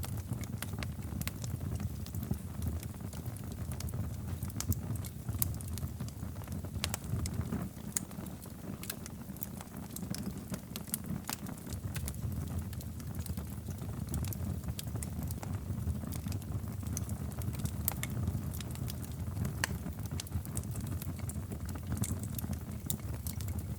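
Wood fire in a fireplace crackling: a steady low roar of the flames with many irregular sharp pops and snaps.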